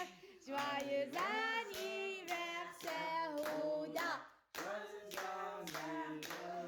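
Family singing a birthday song together with hand clapping, women's and children's voices, the clapping growing clearer in the second half.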